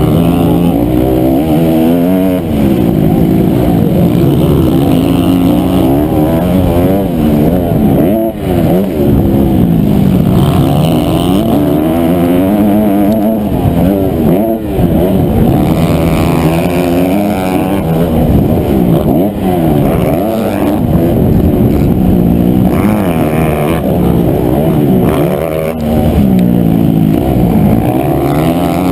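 Honda CRF250R's four-stroke single-cylinder engine revving hard during a motocross race, its pitch climbing and dropping over and over as the throttle is opened and shut through the gears, with brief throttle cuts about eight and fourteen seconds in.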